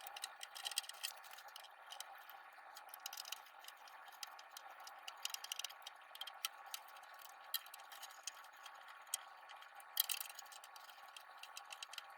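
Screwdriver backing screws out of a CRT television's housing: a run of quick, irregular small clicks and ticks, with one sharper click about ten seconds in.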